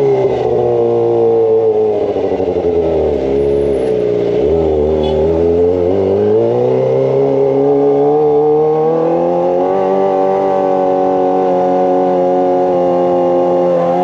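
Kawasaki ZX-25R inline-four engine through a Racefit Slash aftermarket exhaust while riding. Its pitch falls over the first four seconds as the throttle comes off, climbs again over the next four or five seconds, and then holds steady.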